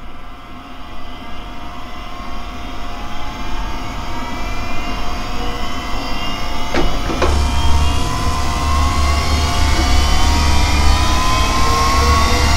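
Synthesized sci-fi laser beam sound effect, a long build that swells steadily louder with several tones gliding slowly upward in pitch. Two sharp clicks come about seven seconds in, and a deep rumble joins from there on.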